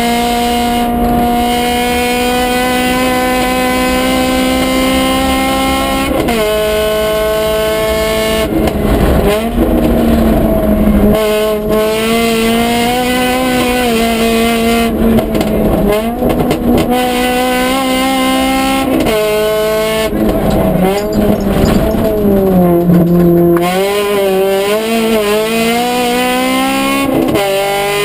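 Honda Civic rally car's engine heard from inside the cabin at high revs, its pitch climbing slowly and then dropping sharply about six seconds in, as at an upshift. Through the middle the revs swing down and up as the car brakes, downshifts and accelerates again, with rougher noise in several stretches, and another sharp drop in pitch near the end before it climbs again.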